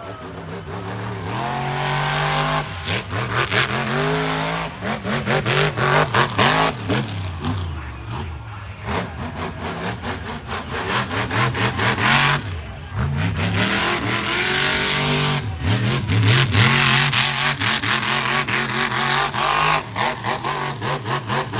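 Monster truck's supercharged V8 revved hard again and again, its pitch climbing and dropping with each burst of throttle. Loud noisy rushes and many sharp knocks come with the hardest pulls.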